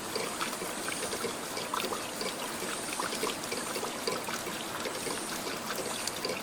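Water trickling and babbling steadily, like a small stream, with many small bubbling blips.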